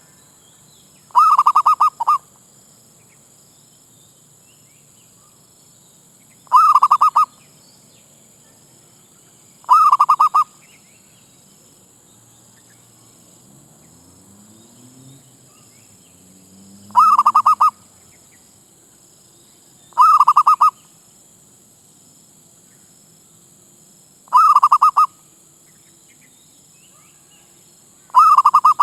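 Zebra dove (merbuk) cooing: seven short, loud, rapidly stuttering coos, each under a second, repeated every few seconds.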